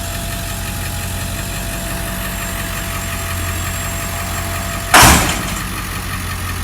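A vehicle engine idling steadily. About five seconds in, a loud sudden noise cuts in and dies away over about half a second.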